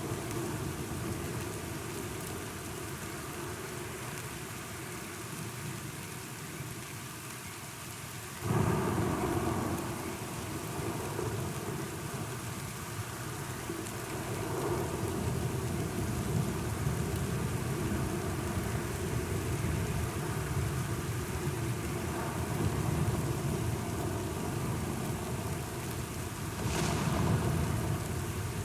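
Thunderstorm: steady heavy rain with rolling thunder. A sudden loud thunderclap comes about a third of the way in, and another crack of thunder swells up near the end.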